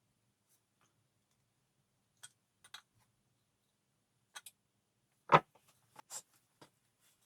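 Workshop handling sounds: scattered light clicks and taps, with one much louder knock a little past five seconds in.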